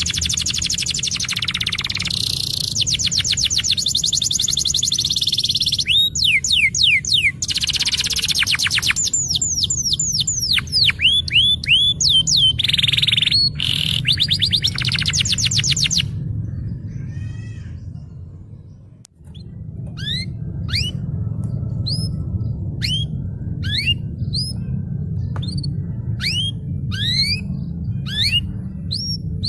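Domestic canary singing a continuous rolling song of fast trills and sweeping whistles, over a steady low hum. About two-thirds through the song fades and breaks off, then picks up again as short sweeping chirps repeated a little more than once a second.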